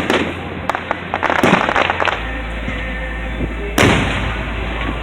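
Fireworks going off: a bang at the start, a quick run of crackling pops between about one and two seconds in, then another loud bang near four seconds.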